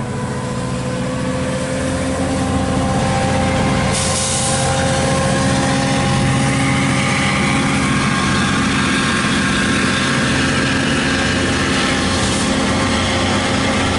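MARC commuter train's diesel locomotive running as the train gets under way: a steady engine drone with higher whining tones over it. A brief hiss of air comes about four seconds in, and a fainter one near the end.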